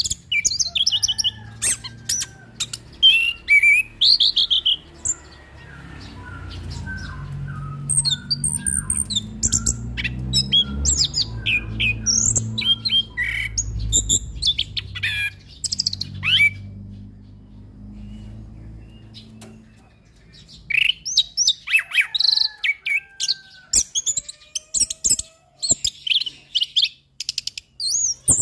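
Orange-headed thrush (anis kembang) singing a fast, varied song of chirps and trills. Through the middle of the stretch the high notes thin out and a low rumble sits underneath.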